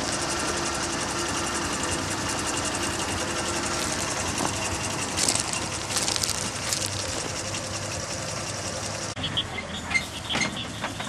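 Ford 300 straight-six running steadily, with a faint whine over it from worn belts and a worn-out power steering pump. About nine seconds in, the sound changes abruptly to something quieter with scattered clicks.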